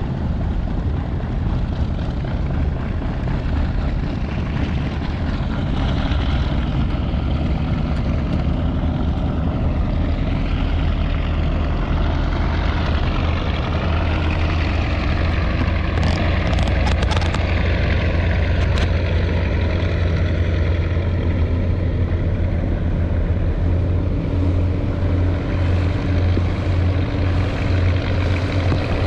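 The Martin Mars flying boat's Wright R-3350 Duplex-Cyclone 18-cylinder radial engines running, a steady, loud, deep propeller drone.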